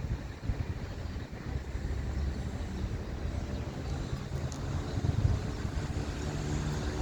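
Boeing 787-9 jet engines rumbling low and steady as the airliner flies over on approach, with some wind on the microphone.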